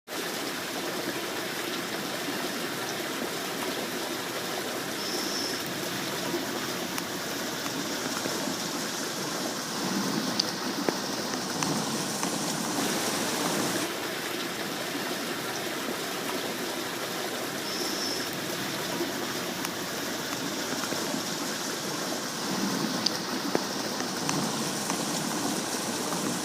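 Running stream water: a steady rushing and trickling flow.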